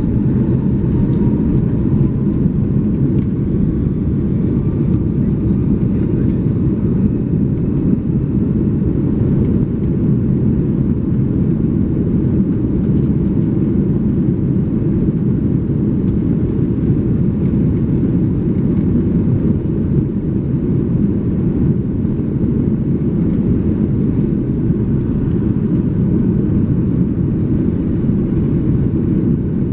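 Jet engines of an Airbus A330-300 (Rolls-Royce Trent 700s) running, a steady, deep, unbroken noise.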